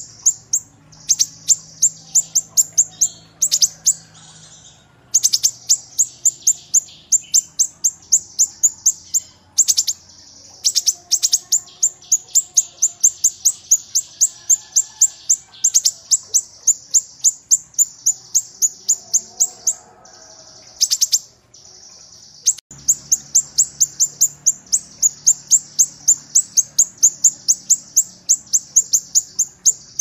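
Caged kinoi, a leafbird, singing a fast run of sharp, high chips, about four a second, in long phrases broken by brief pauses.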